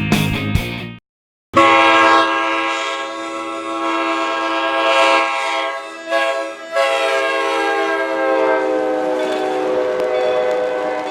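Steam chime whistle of Strasburg Rail Road's 2-10-0 locomotive No. 90 blowing: a long blast starting about a second and a half in, a short break around six seconds, then a second long blast that sags slightly in pitch and fades near the end.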